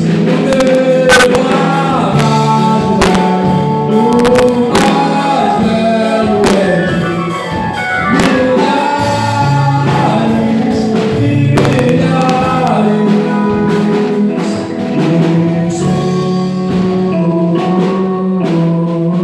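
Gospel worship song: singing over instrumental accompaniment, with sharp drum hits throughout.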